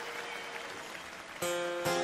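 Audience applause dying away, then an acoustic guitar strikes a chord about one and a half seconds in and a second strum near the end, opening a folk song.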